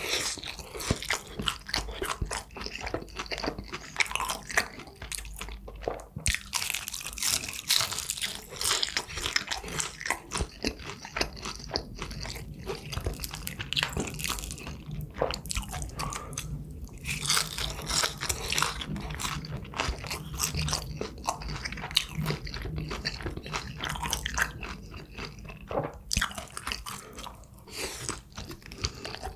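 Close-miked eating: a person biting into and chewing food, with a run of crisp, crunchy crackles and wet mouth sounds.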